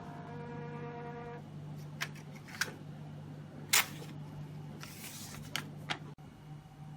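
A steady tone that stops about a second and a half in, then a handful of irregular sharp mechanical clicks and short bursts of noise, the loudest a brief burst near the middle, over a constant low hum.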